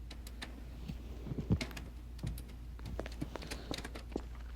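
Scattered, irregular light clicks and key taps at a computer keyboard, over a faint steady hum.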